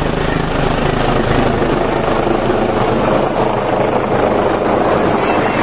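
Military helicopter flying low overhead, its rotor and engine running loud and steady, with strong rotor downwash blowing across the microphone.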